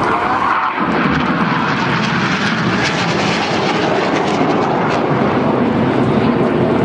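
BAE Hawk T1 jet trainers flying past. Their jet engine noise is a loud, steady rushing sound, with a pitch that drops a little in the first second.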